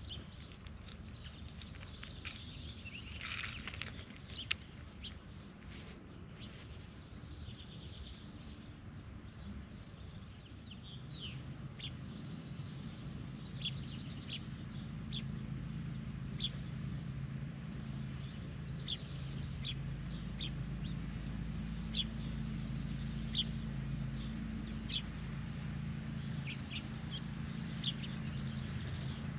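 Wild birds chirping in short, sharp notes, about one a second in the second half, with a louder, harsher call about three seconds in. A steady low hum comes in about eleven seconds in.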